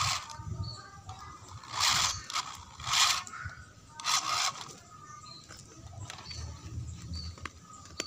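Small electric motor driving a homemade RC truck gearbox with plastic gears, whirring in three short bursts about a second apart, with a couple of light clicks near the end.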